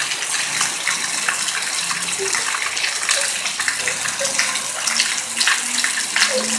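Heavy rain pouring down steadily: a dense, even hiss with many small splashes.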